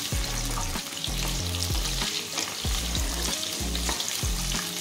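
Cauliflower florets and potato chunks sizzling as they fry in hot mustard oil on a high flame, with a wooden spatula scraping and stirring them in the kadhai.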